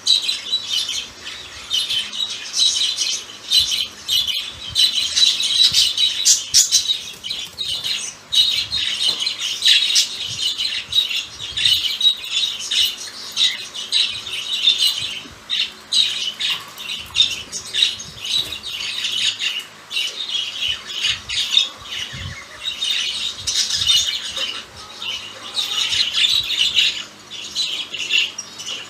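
Pair of budgerigars chattering in their cage: a steady stream of warbling with many short, sharp squawks and chirps.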